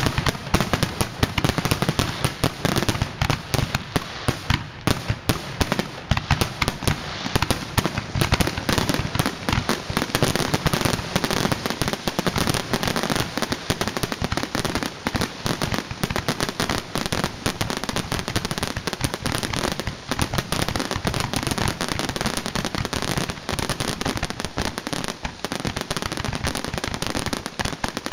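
Fireworks display going off nonstop: a dense, rapid stream of bangs and crackling with no pause.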